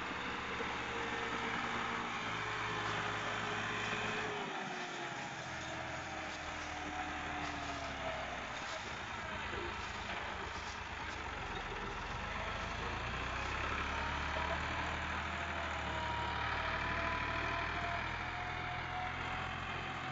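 Tractor engine running steadily, its pitch sagging slowly in the first half and climbing again later as the engine speed changes.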